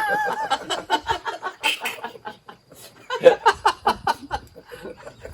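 A group of people laughing at a joke, in two bouts of rapid chuckles.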